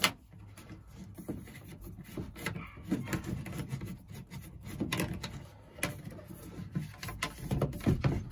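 Plumbing fittings and pipe handled by hand as a seal and fitting go on: a sharp click at the start, then irregular small knocks, clicks and rubbing.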